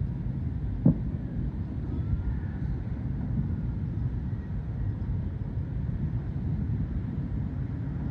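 Countless distant fireworks across a city merging into a continuous low rolling rumble, like far-off thunder, with one nearer, sharper bang about a second in.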